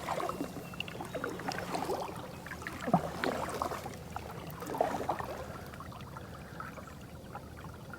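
Water splashing and gurgling in irregular bursts around a depth finder's transducer mounted over the side of a moving canoe. It is a noise the canoe would not make if it were running almost silent.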